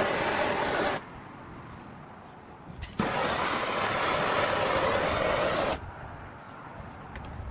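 Draw knife's steel blade held to a powered grinder: loud grinding hiss that stops about a second in, leaving the machine's quieter hum. A sharp knock is followed by a second pass of grinding lasting nearly three seconds, which ends near the end.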